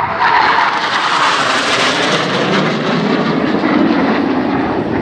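Fighter jets flying past, a loud rushing engine noise that drops in pitch after about two seconds as they pass.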